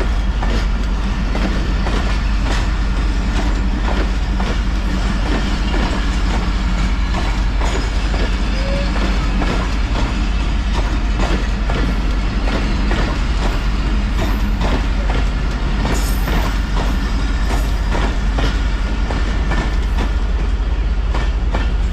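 Passenger train rolling past, its wheels clicking steadily over the rail joints above a continuous heavy rumble.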